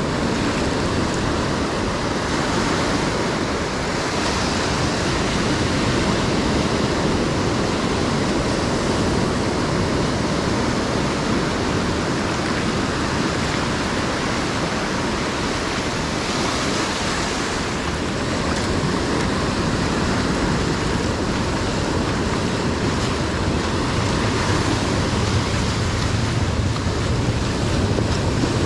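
Ocean surf breaking and washing up the beach: a steady rush of waves that swells slightly now and then.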